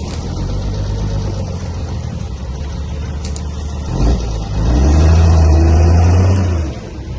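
Heavy diesel engine of earthmoving machinery running steadily, then pulling harder and louder for about two and a half seconds from about four seconds in before easing off.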